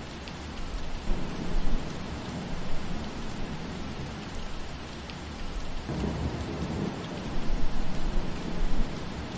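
Steady rain falling, with low rolling rumbles of thunder that swell about a second in and again from about six seconds.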